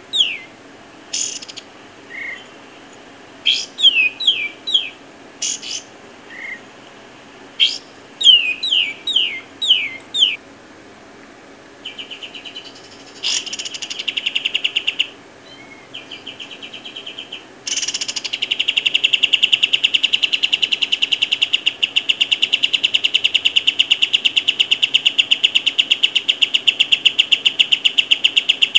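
Bird calls: short series of quick falling chirps repeated several times, then a long, rapid, buzzy trill that starts about twelve seconds in and gets louder about eighteen seconds in.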